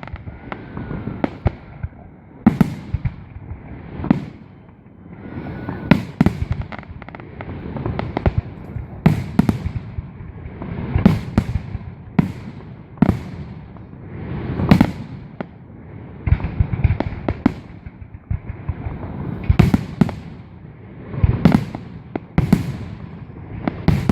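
Fireworks display: aerial shells bursting overhead in a steady series of sharp bangs, one every second or two, with echoing rumble between them.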